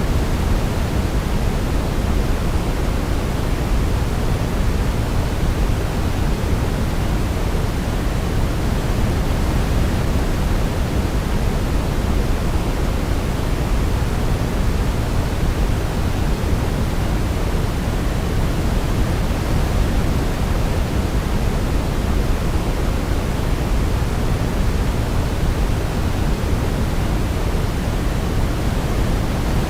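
Steady, unchanging pink-type noise used to soothe a baby to sleep: an even rushing hiss, heaviest in the low end, with no melody heard over it.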